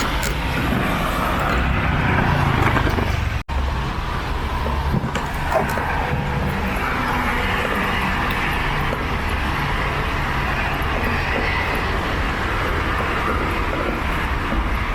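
City street traffic: cars running and passing in a steady wash of road noise, cut off for an instant about three and a half seconds in.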